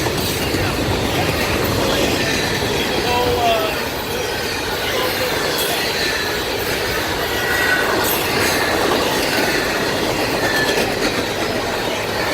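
Two freight trains, one of autorack cars and one of intermodal cars, rolling past together on adjacent tracks: a steady loud rumble and rattle of cars and wheels on rail, with brief high squeals from the wheels now and then.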